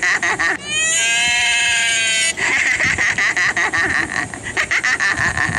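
Animal calls: rapid chattering pulses, then one long call of about a second and a half with a slight rise in pitch at its start, then rapid chattering again.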